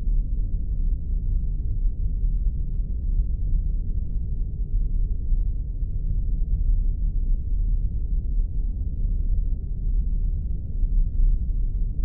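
Spaceship sound effect: a deep, steady low rumble with a fluttering texture and nothing above it, like the ambient drone of a starship's engines heard from inside the ship.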